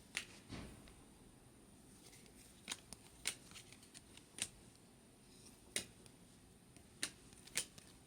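Faint, irregular clicks and flicks of stiff chrome baseball cards being handled and slid through a pack, about eight in all.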